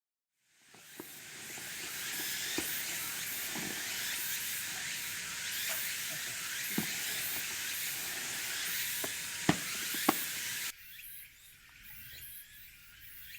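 Beef sizzling as it sears in a cast-iron Dutch oven: a dense high hiss with scattered sharp pops of spitting fat. The sizzle starts just after a moment of silence and cuts off suddenly about eleven seconds in, leaving quieter outdoor background.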